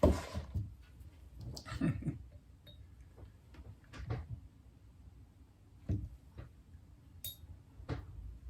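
Soft, scattered knocks and taps of small objects being handled, about one every two seconds, with a short high ping about seven seconds in.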